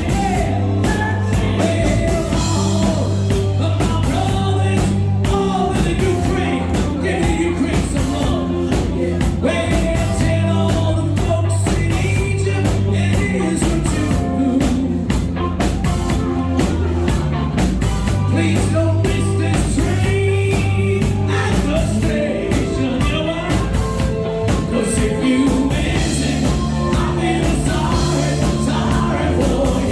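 Live band playing a song with a sung lead vocal over drums and bass guitar, with a steady beat throughout.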